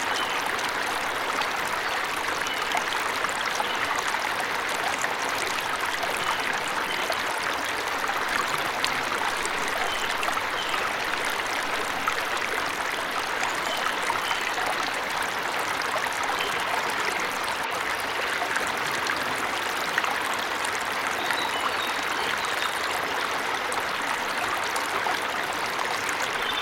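Waterfall rushing steadily into a stream, an even unbroken wash of water, with a few faint, brief bird chirps scattered over it.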